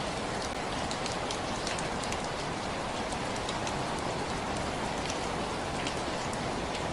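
Steady rain falling, with a dense hiss and many individual drops pattering and splashing close by.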